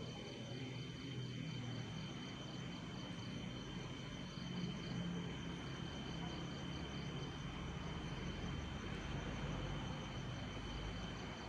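Night chorus of crickets and other insects: a steady high trill with rows of evenly pulsing chirps above it, over a low, steady rumble.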